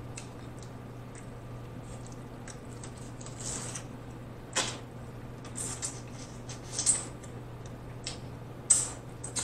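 Close-miked chewing of snow crab meat: wet lip smacks and mouth clicks at irregular intervals, the loudest about halfway through and near the end.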